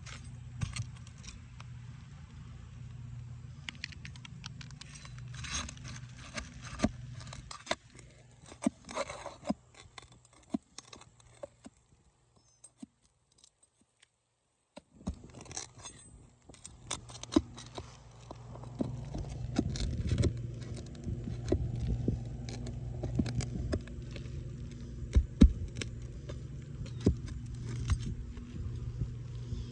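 Metal flat bar scraping and clinking against old asphalt shingles and roofing nails as they are pried up, in irregular scrapes and taps over a steady low hum. The sound drops almost to silence for a couple of seconds about halfway through.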